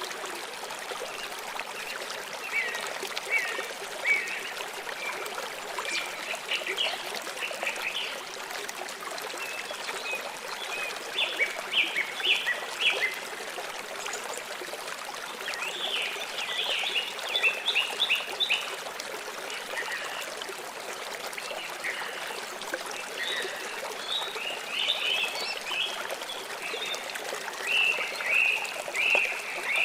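Flowing water, a steady rush, with small birds chirping over it in short runs of quick notes every few seconds, busiest about halfway through and near the end.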